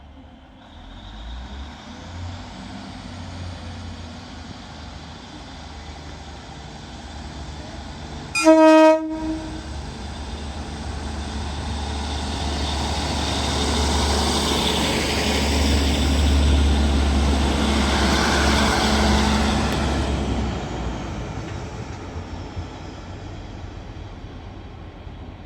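Northern Class 150 Sprinter diesel multiple unit departing: its diesel engines run at idle, then a short, loud horn blast sounds about eight seconds in. The engines then throttle up and grow louder as the train pulls away, fading again near the end.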